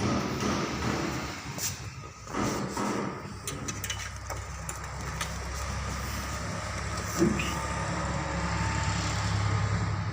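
Mahindra Bolero turbo-diesel engine idling steadily, with a few light clicks and one short knock about seven seconds in.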